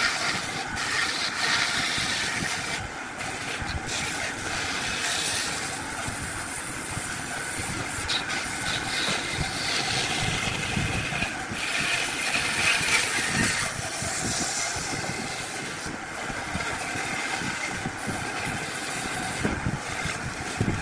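Wood lathe running with a turning tool cutting the spinning wood: a steady, rough cutting noise with a few brief clicks.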